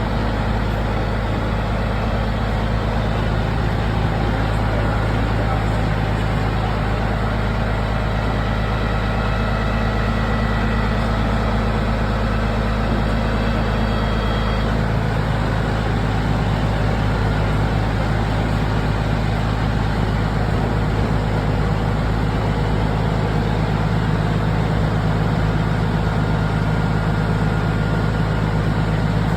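Motor vehicle engine running steadily: a constant low drone that holds the same pitch and level throughout.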